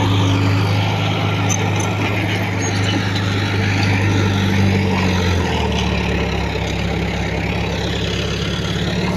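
Diesel engine of heavy earthmoving machinery running steadily, its note shifting about five and a half seconds in.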